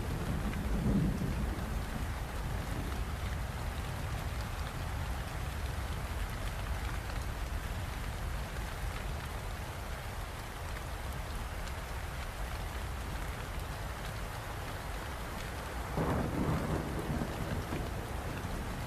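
Steady rain falling, with low rolls of thunder: one near the start and a louder one about sixteen seconds in.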